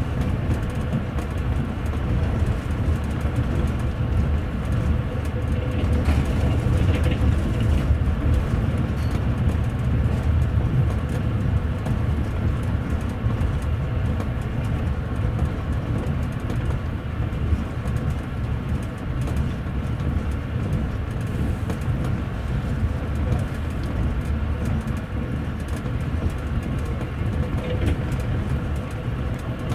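Steady low rumble of a double-deck passenger rail coach running at speed, heard from inside on the upper deck: wheels rolling on the rails.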